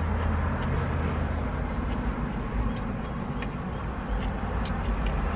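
Eating sounds, with small wet clicks and smacks of chewing noodles scattered through, over a steady low rumble.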